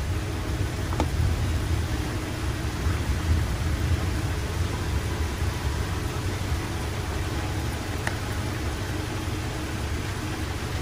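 A car engine idling steadily with a low rumble. There is a faint click about a second in and another near the end.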